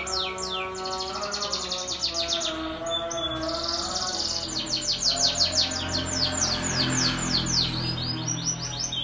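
Domestic canary singing a long, fast song: runs of quick, repeated downward-sweeping high notes, with a dense rolling trill about three and a half seconds in, over lower sustained tones.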